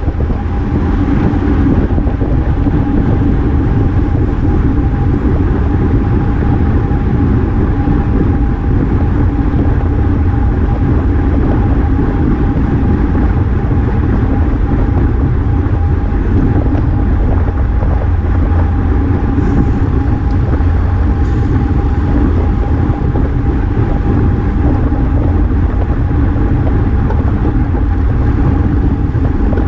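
Wind rushing over the action camera's microphone while a road bike rides at speed, with tyre and road noise and a thin steady hum throughout.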